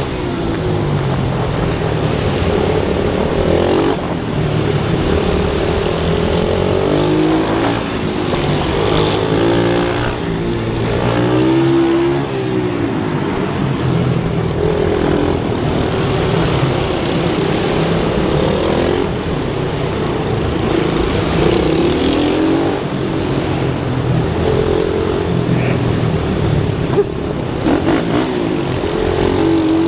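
Pit bike engines on a race track, small motorcycle engines revving up and down as the bikes accelerate and brake through the corners, with several engines overlapping at once.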